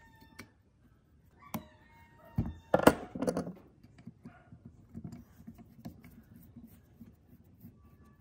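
Metal parts being handled and knocked together: a couple of sharp clinks that ring briefly, then a cluster of heavier knocks about two and a half to three and a half seconds in, followed by light irregular tapping.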